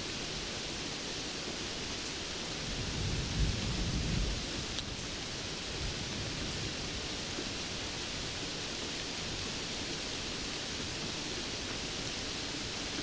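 Steady rainfall with a brief low rumble of thunder that swells and fades about three seconds in.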